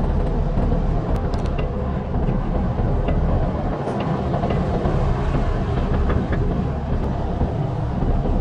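Car engines and exhausts running with a steady low rumble, with a few faint clicks over it.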